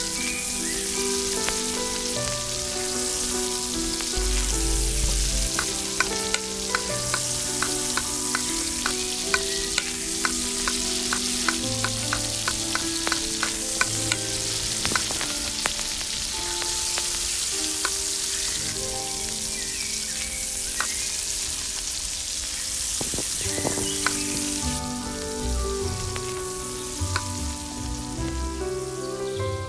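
Tomato and egg curry sizzling in a miniature steel pot while a small spoon stirs it. A quick run of light clicks and scrapes, about two or three a second, comes from roughly six seconds in for about ten seconds, with a few more later.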